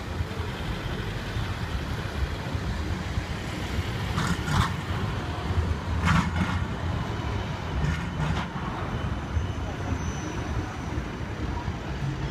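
Steady low vehicle rumble, with three short, louder sounds about four, six and eight seconds in.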